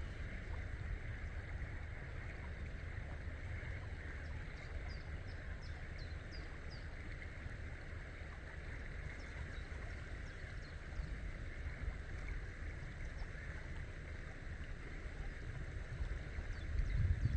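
River ambience: steady rushing water with low wind rumble on the microphone, growing stronger near the end. Faint high chirps come in short runs a few seconds in and again around ten seconds in.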